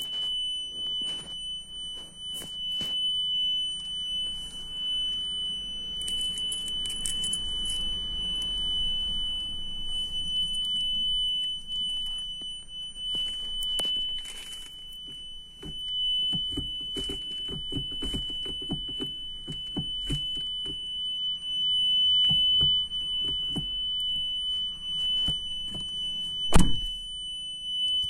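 Maruti Suzuki Fronx reverse parking sensor buzzer sounding one steady, unbroken high-pitched tone, with clicks and handling noises over it and a sharp click near the end. The buzzer is stuck on: a parking sensor fault that keeps it sounding even with the key removed.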